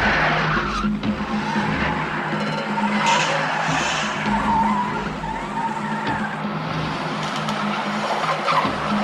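Cars racing in a chase, engines running hard and tyres squealing and skidding through turns.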